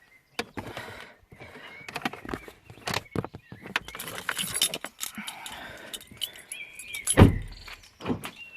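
Keys jangling and clicking while someone handles things at a car, then a car door shut with a heavy thud about seven seconds in. Birds chirp briefly near the end.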